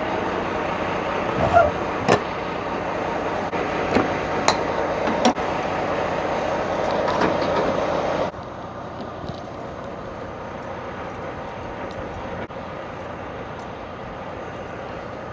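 Steady vehicle running noise with scattered sharp clicks and knocks. About eight seconds in it drops suddenly to a quieter steady hum.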